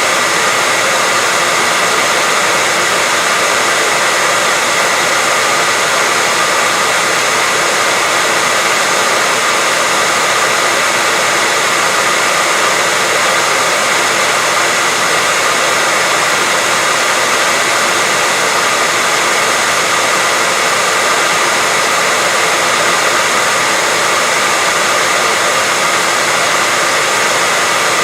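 Continuous white noise: an even, unchanging hiss, strongest in the upper range, with a faint steady whistle running through it.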